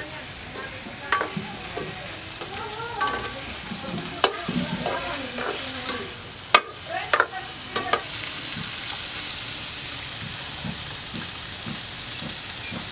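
Chopped black eel frying in a metal wok over a wood fire. A utensil clicks and knocks against the pan through the first several seconds, then a steady sizzle carries on.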